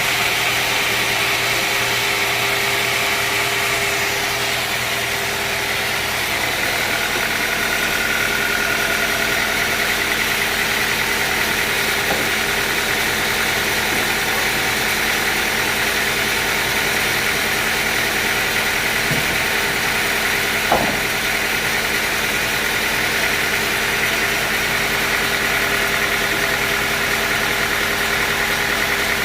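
Sawmill machinery running steadily, with several steady tones and one sharp knock about two-thirds of the way through.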